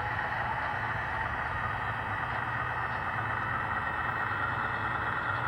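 Broadway Limited Imports model diesel locomotive's onboard sound system playing a steady diesel engine running sound through its small speaker.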